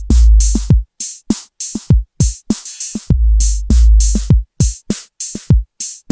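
Electronic drum-machine beat: long, deep bass-drum booms that fall in pitch, and short sharp hits, with brief silences between them.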